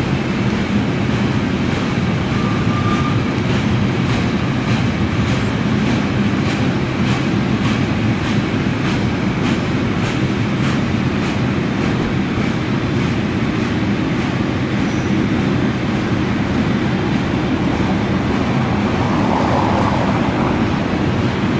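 Container freight train wagons rolling past at steady speed: a continuous low rumble, with a run of rhythmic wheel clicks over the rail joints through the middle.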